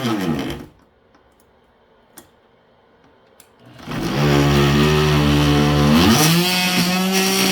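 Corded oscillating multi-tool (Warrior 2 Amp variable-speed) winding down to a stop, then, after a quiet gap with a couple of light clicks, starting up again and running with a steady buzzing hum. Near the end its pitch dips and then settles at a higher steady note.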